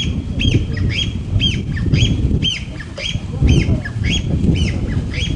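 A bird calling over and over, about two short notes a second, each rising then falling in pitch, over a low rumbling noise.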